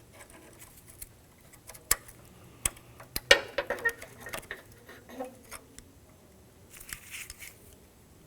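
Sharp clicks and light metallic clinks and rattles from a removed hood latch being handled as the hood release cable's ball end is worked free of the latch mechanism, busiest around the middle.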